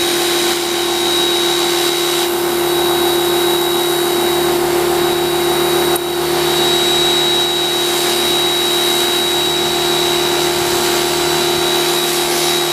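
Simoniz Platinum 1800 PSI electric pressure washer running steadily with its trigger squeezed, the motor and pump humming under a steady high whine and the water jet hissing as it sprays.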